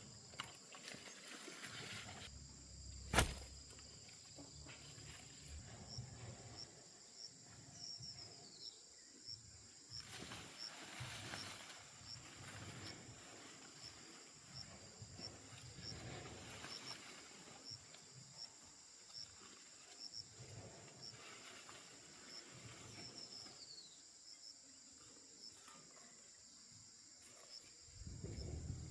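Outdoor insect chorus: a steady high drone with a run of short chirps repeating a few times a second, plus one sharp knock about three seconds in and scattered soft thumps and rustling.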